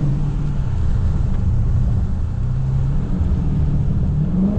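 Dodge Scat Pack's 392 HEMI V8 running at a steady cruise, a low, even drone that holds roughly one pitch with slight rises, over wet-road tyre noise.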